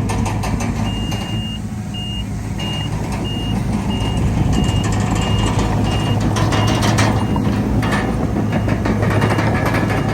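Diesel engine of heavy earthmoving machinery running steadily, with a reversing alarm beeping over it. The alarm starts with one longer tone, then gives short even beeps about one and a half a second, and stops about three quarters of the way through. Fainter beeps come back near the end.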